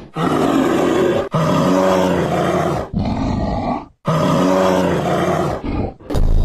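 An animal's loud, pitched call, sounding twice in nearly the same form, each about two to three seconds long with a short gap between.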